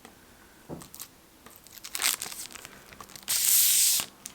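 Packaging being handled and torn open: scattered crinkling and crackling, then one loud tearing rip about three seconds in that stops abruptly.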